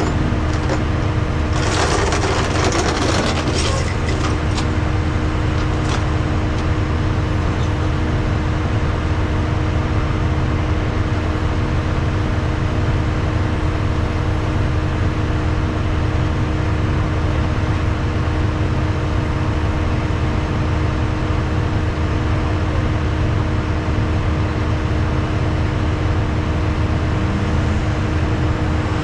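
Tri-axle rollback truck's diesel engine running under way, a steady low drone with road noise. A brief burst of hiss comes about two seconds in.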